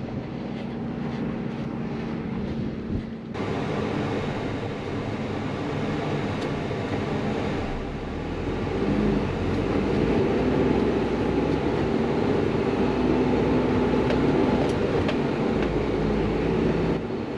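Isuzu NPS 4x4 truck's turbo-diesel engine working hard under load as it climbs a sand dune, the sound changing abruptly about three seconds in and growing louder past the halfway mark.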